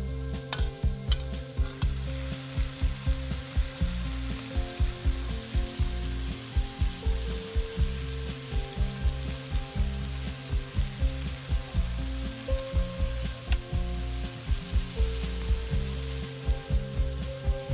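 Frog pieces frying in hot oil in a steel wok, a steady sizzle, under background music with a steady beat.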